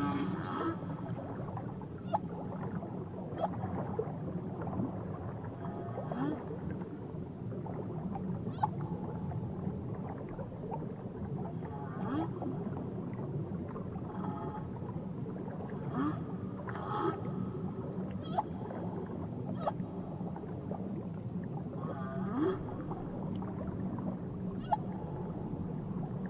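Whale calls recorded underwater: short rising calls recur every second or two, with scattered sharp clicks over a steady low hiss.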